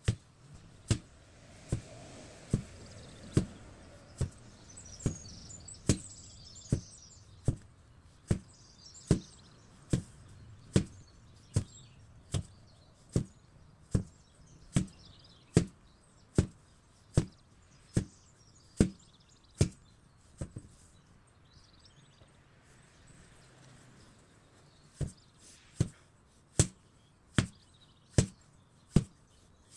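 8 kg sledgehammer striking in a steady rhythm, a little more than one blow a second, with a pause of about four seconds past the middle before the blows resume.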